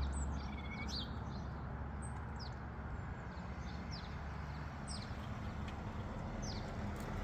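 Sparrows chirping: a scatter of short, high cheeps that drop in pitch, several a second at times, over a steady low background noise.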